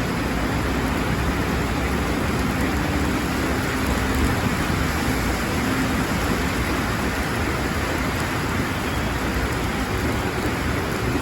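Heavy rain falling in a steady, even rush, with a faint low hum coming and going underneath.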